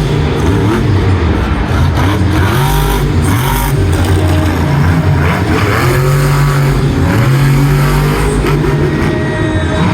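Monster truck's supercharged V8 engine revving hard, its pitch rising and falling again and again as the truck is driven.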